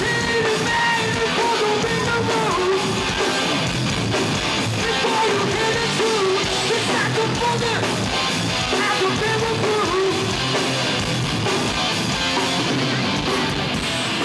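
Hardcore band playing live, loud and steady: distorted electric guitars, drums and yelled vocals.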